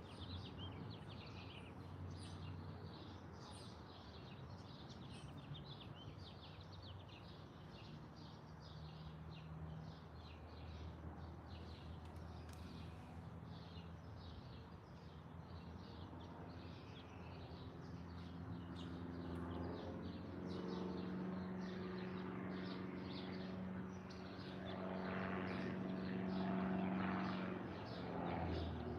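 Many small birds chirping rapidly and continuously. Under them runs a low, steady engine drone that grows louder over the last ten seconds.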